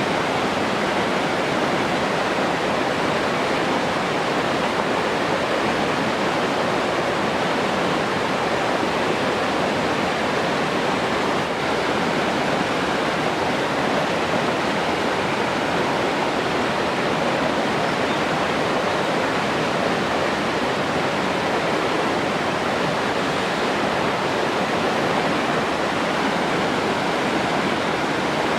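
Steady rushing of falling or flowing water, an even hiss without changes.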